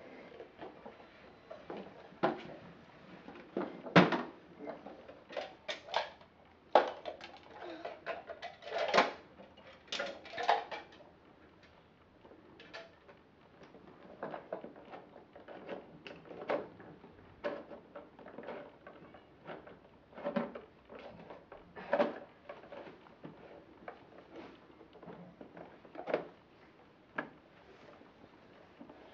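Plastic toy garbage trucks and bins being handled and pushed around, making irregular clacks, knocks and rattles, the sharpest knock about four seconds in.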